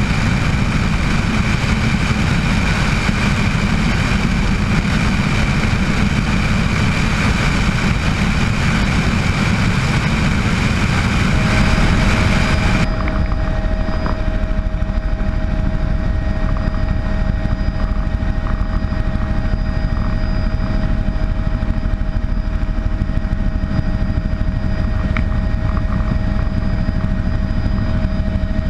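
Bell 206 JetRanger helicopter running, a steady din of its turbine engine and rotors. About halfway through, the high hiss drops away abruptly and a steady whine tone stands out.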